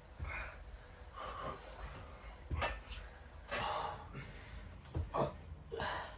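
Hard breathing of people exercising: sharp, forceful exhales and intakes of breath, about one a second, with a couple of knocks among them.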